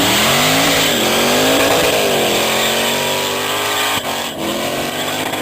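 Holden HQ police car doing skids: the engine revs up hard and is held high, wavering and dipping about halfway, over the hiss and squeal of spinning rear tyres.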